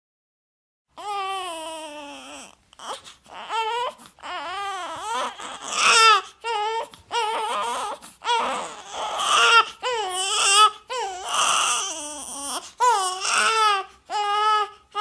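A baby crying: a run of high, wavering cries broken by short breaths, starting about a second in.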